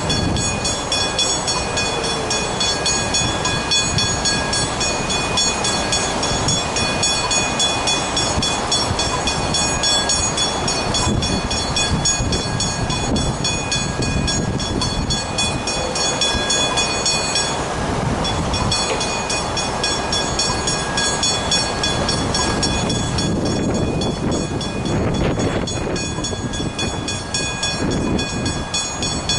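Level crossing warning bells ringing rapidly and continuously while a train rumbles through the crossing. The bells stop for a moment a little past halfway, then ring on.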